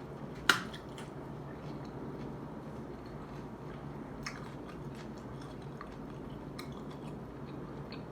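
Close-miked chewing and wet mouth sounds of someone eating shrimp ceviche, with a sharp click about half a second in and a few fainter clicks later.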